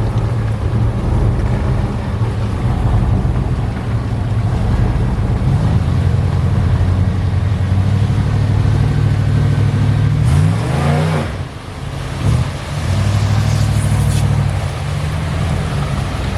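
Off-road vehicle engine running steadily under load, with the engine pitch gliding briefly about ten seconds in and a short dip in level just after.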